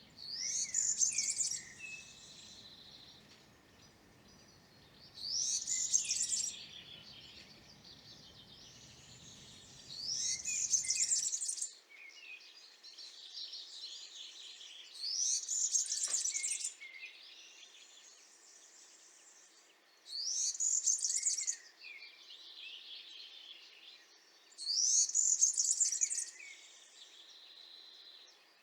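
European serin singing: high, fast jingling phrases of about a second and a half, repeated roughly every five seconds.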